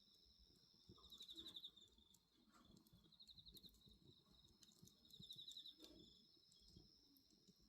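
Faint bonfire with occasional soft crackles and a low rumble, under a steady high chorus of night insects. Short pulsed insect trills come three times, about two seconds apart.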